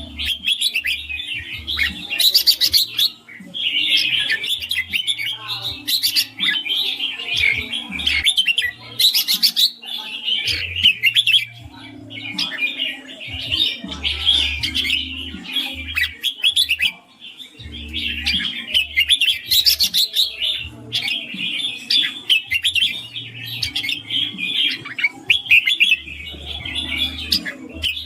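Red-whiskered bulbul singing its rapid, chattering 'ring' song in long runs of quick notes, each run a few seconds long with short pauses between.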